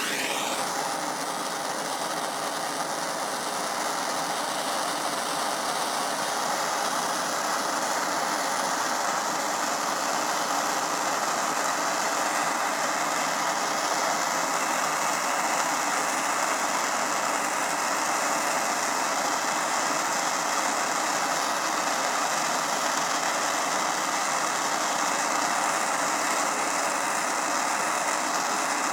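Propane torch flame burning with a steady hiss while it heats a copper pipe for a welding-rod repair.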